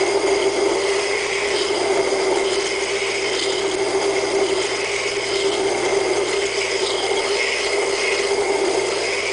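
Double-wheel hollow grinder running steadily, its abrasive belt grinding a knife blade's bevel, with a constant hum under a steady rasping hiss.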